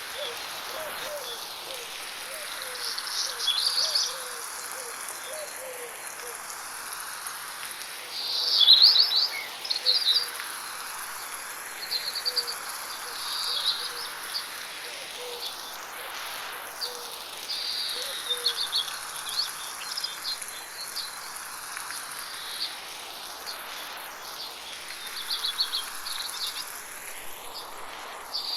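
Forest birds singing in light rain: bursts of rapid high chirps and trills every few seconds over a steady hiss of rain and a steady high insect drone. The whole soundscape swirls slowly from side to side in 8D panning.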